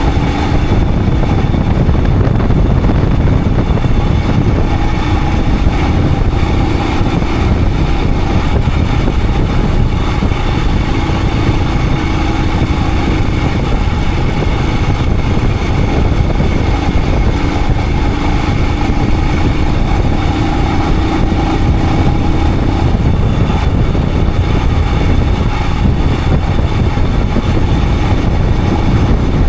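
Royal Enfield Himalayan 411's single-cylinder engine running on the move, its pitch stepping up and down a few times, under a heavy, steady rumble of wind on the action-camera microphone.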